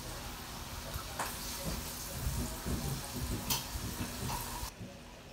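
Close-up eating sounds: chewing crispy fried calamari, with a few sharp crunches and wet mouth noises over a steady hiss that cuts out near the end.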